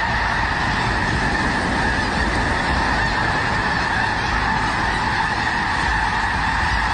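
A huge flock of snow geese honking all at once as they take to the air: a dense, steady din of overlapping calls.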